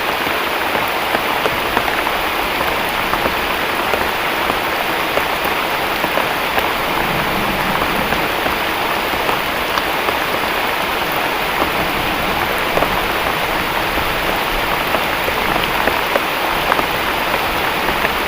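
Heavy tropical rain falling steadily, a dense continuous hiss with many individual drop hits.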